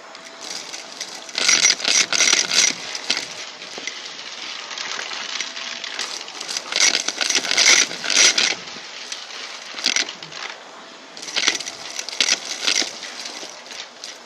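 Vacuum cleaner running with a steady hiss, rattling and crackling in several bursts as it sucks up crunchy debris: about a second and a half in, again around seven seconds, and near the end.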